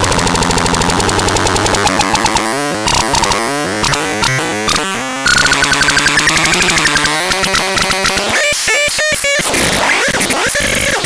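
Electronic sound effects from the TADRALAN NT 202: harsh, fast-pulsing buzzy tones that warble and glide in pitch, switching to a new pattern about five seconds in and to a stuttering chirp sequence about eight seconds in.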